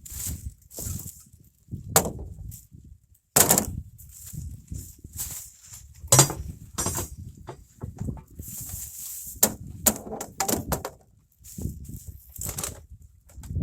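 Irregular knocks and clunks of objects being picked up, moved and set down in a pickup truck bed, with several sharp hits, the loudest about three and a half and six seconds in, over a low rumble.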